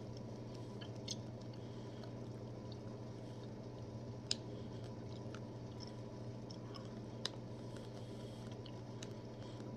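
A person faintly chewing a soft gummy candy, with small squishy mouth clicks and a couple of sharper ticks, over a steady low hum.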